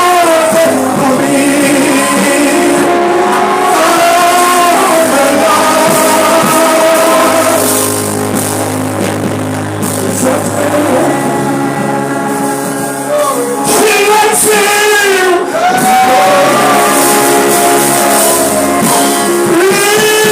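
Live worship song: a singer holding long notes with vibrato over a band with guitar and bass.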